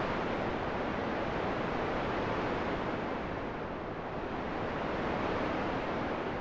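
Steady rushing wind noise that eases slightly and swells again, with no gusts or clicks.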